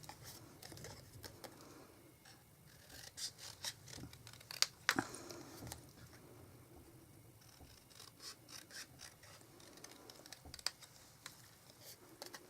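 Scissors cutting through cardstock by hand: faint, irregular snips and scratchy paper sounds.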